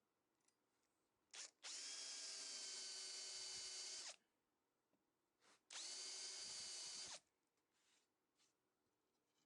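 Electric drill running in two bursts, the first about two and a half seconds and the second about a second and a half, each starting with a quick brief blip of the trigger before the motor spins up to a steady whine.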